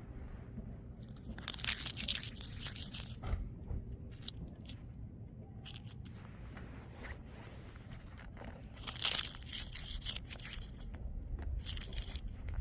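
Dry fallen leaves being crushed, crunching and rustling, in two louder spells: one a second or so in, the other from about nine seconds in.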